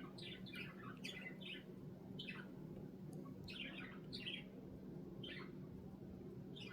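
Budgerigar chirping in short clusters of quick chirps, about one cluster a second with gaps, over a steady low hum.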